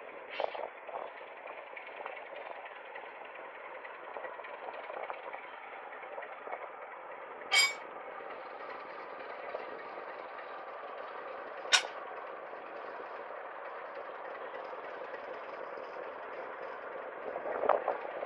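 Train of wooden passenger carriages rolling slowly along the track with a steady rattle of wheels and running gear. There are two sharp metallic clanks, one about seven seconds in and one about twelve seconds in. Near the end a louder swell comes in as the diesel locomotive draws closer.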